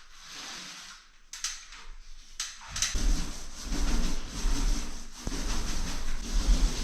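Two light knocks, then about three seconds in a loud, uneven rubbing or scraping against wood begins and continues.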